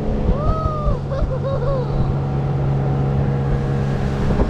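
Boat motor running steadily, a low even hum under the rush of wind and water. A short wavering pitched sound rises, holds and falls in the first two seconds.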